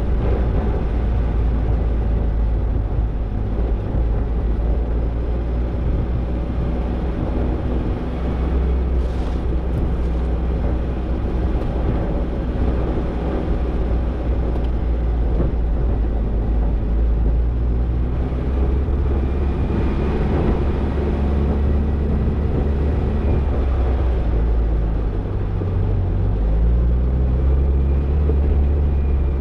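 Toyota Tercel 4WD wagon driving on a dirt trail, its engine running steadily with a low rumble. The engine note rises near the end.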